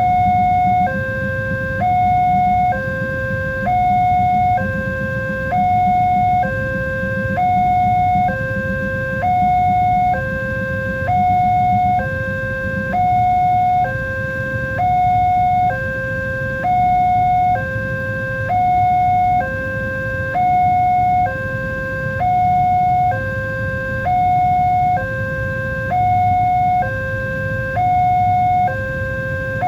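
Level crossing warning alarm sounding: an electronic two-tone signal switching steadily between a higher and a lower note about once a second, over a steady low rumble. It is the warning that a train is approaching and the barrier gates are closing or closed.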